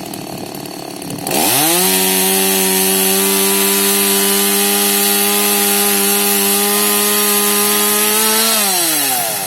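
Petrol chainsaw revved up to full throttle about a second in, running at a steady high pitch for about seven seconds while cutting wood, then dropping back toward idle near the end.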